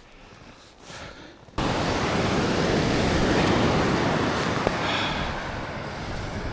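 Sea surf and wind at the shore as a steady, loud rush of noise that starts abruptly about one and a half seconds in, after a quiet start.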